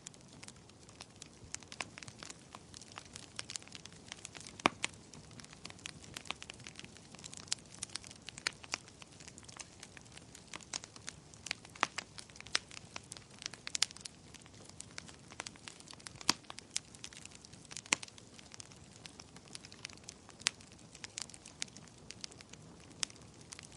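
Wood fire crackling in a fireplace: irregular sharp pops and snaps, several a second, with a few louder ones scattered through, over a soft low rush of the flames.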